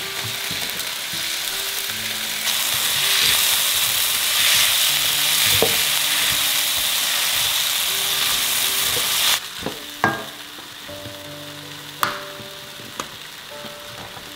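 Sliced tomatoes and chillies sizzling in a hot oiled wok while a spatula stirs them. The sizzle grows louder a couple of seconds in and cuts off abruptly after about nine seconds. Then come a few sharp clicks and taps as fingers work the ring-pull of a sardine tin.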